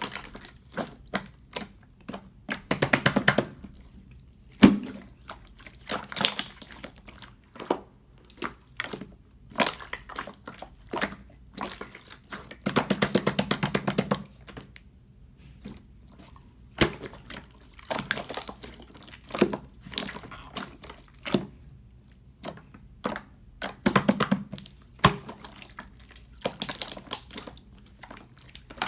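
Jiggly yellow slime being squeezed and poked by hand, making wet, sticky clicks, with short runs of fast crackling pops several times.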